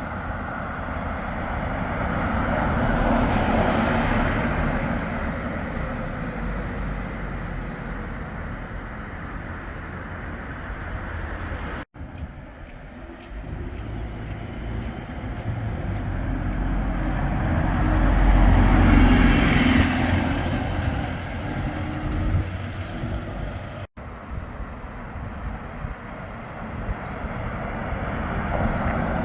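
Large vehicles passing by on a street, heard in three short shots joined by abrupt cuts, each rising to a peak and fading away.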